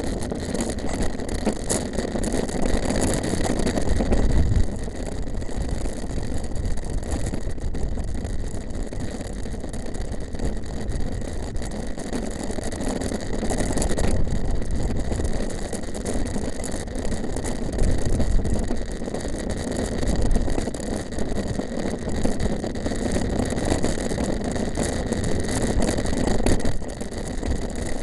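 Steady rumbling noise of a mountain bike being ridden off-road: wind buffeting the bike-mounted microphone and tyres rolling over the rough trail, swelling and easing unevenly.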